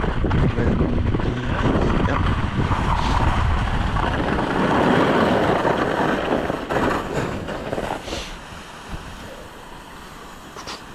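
Wind rushing over the microphone and skis sliding on snow during a descent, loud for the first six or seven seconds and then dying down.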